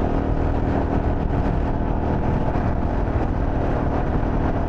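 2024 Harley-Davidson Pan America Special's liquid-cooled V-twin running at a steady cruise, with wind and road noise, heard through a helmet-mounted mic.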